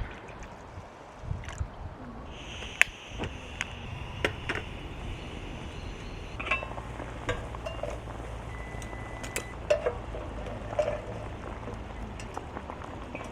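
Scattered light clinks and taps of camp cookware and gear being handled.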